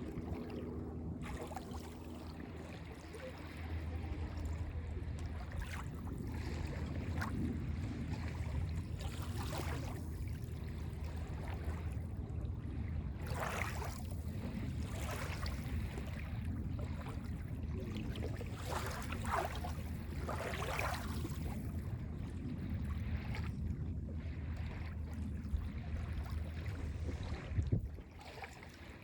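Small waves lapping and splashing on a Lake Ontario beach, with a few louder swashes about midway, over a steady low rumble.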